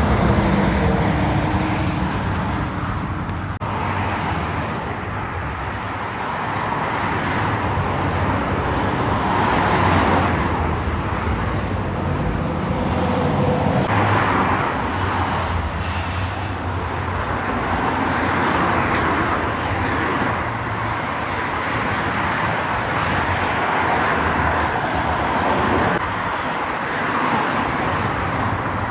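Roadside traffic: trucks and cars passing one after another, a continuous rush of engines and tyres that swells as each vehicle goes by.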